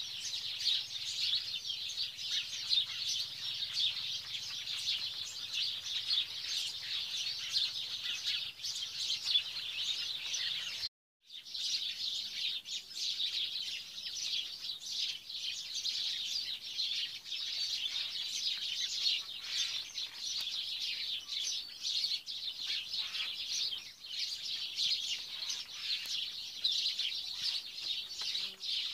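Many small birds chirping continuously in a dense chorus of overlapping short calls. The sound drops out completely for about half a second around eleven seconds in, then resumes.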